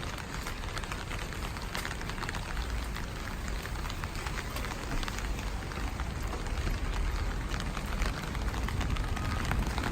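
Steady rain with many separate drops ticking close by, over a low rumble.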